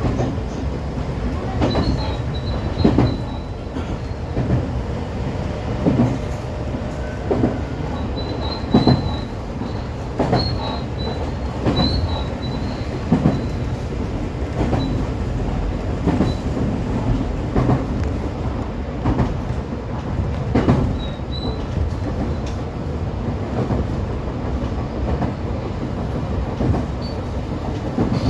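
JR West 125 series electric train running along the line: steady running noise with wheels knocking over rail joints every second or two, and a faint high wheel squeal that comes and goes.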